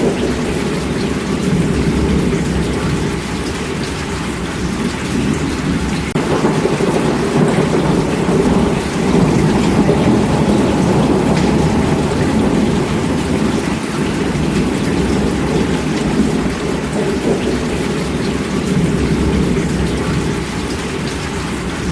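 Heavy rain falling steadily: a dense, even wash of sound with a deep rumble underneath, swelling a little in the middle and easing toward the end.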